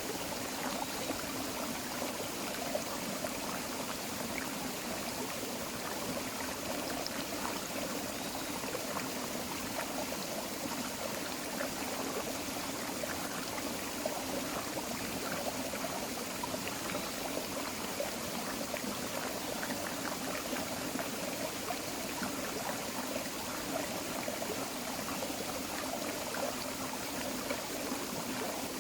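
Forest creek flowing and trickling over stones: a steady babble of running water.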